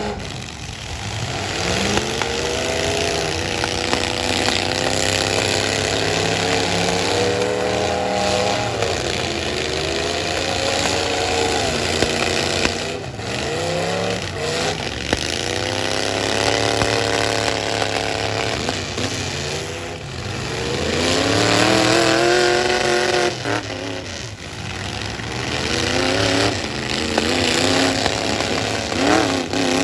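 Full-size stock pickup truck engines revving up and falling back over and over as the trucks accelerate and reverse in a demolition derby, with a few sharp knocks from collisions.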